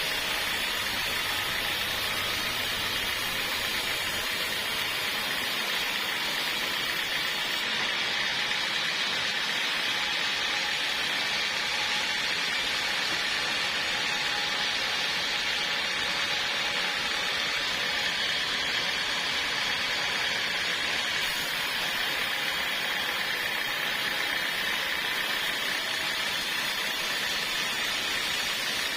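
Portable sawmill running steadily, a constant noise that does not rise, fall or pause.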